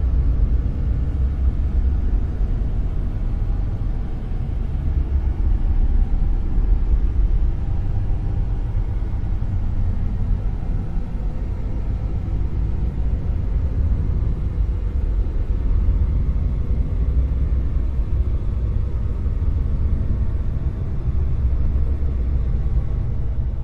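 Dark noise: a steady, deep rumbling hiss with most of its weight in the bass, wavering gently in level.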